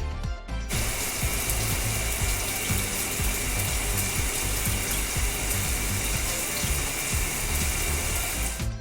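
Steady hiss of spraying water, a cartoon car-wash sound effect, starting about a second in and cutting off suddenly near the end, over background music with a steady beat.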